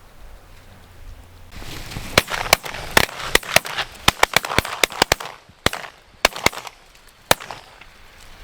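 Rapid volley of more than a dozen shotgun blasts from at least two hunters firing at incoming waterfowl, crowded together for about three seconds and then spacing out to a last shot near the end.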